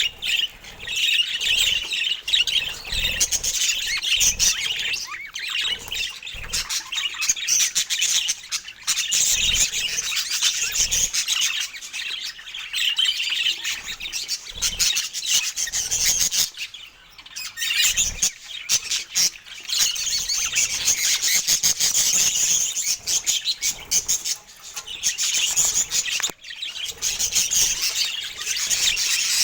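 Budgerigars chattering and chirping without a break.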